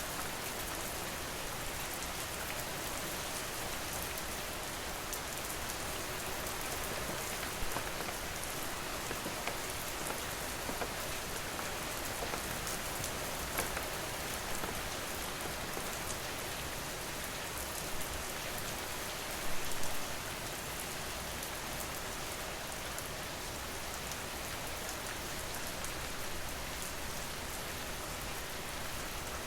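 Steady rain falling, an even hiss with individual drops ticking through it and a brief louder patter of drops a little past the middle.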